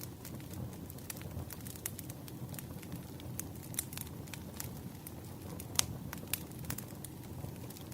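Wood fire burning: a steady low rumble of flames with irregular sharp crackles and pops of burning logs, one louder pop a little before six seconds in.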